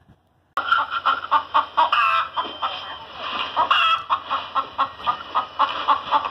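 Hens clucking: many short, overlapping clucks from several birds, starting abruptly about half a second in.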